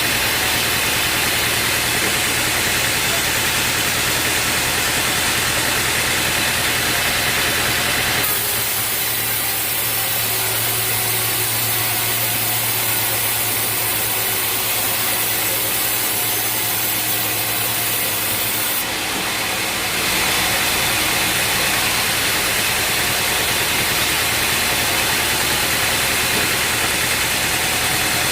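A sawmill running steadily, with engine and sawing noise throughout. The sound changes abruptly about eight seconds in and changes back around nineteen to twenty seconds.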